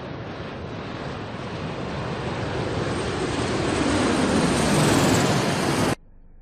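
Jet aircraft passing close, its noise growing steadily louder with a faint high whine, then cut off abruptly about six seconds in.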